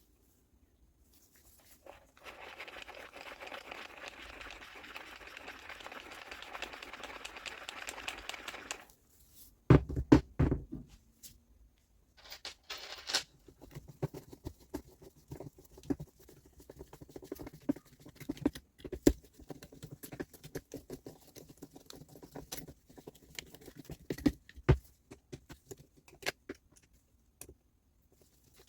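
Hand work on reciprocating-saw parts at a bench: a steady scratchy noise for about six seconds, a few loud knocks, a brief hiss, then scattered clicks and light knocks of parts being handled.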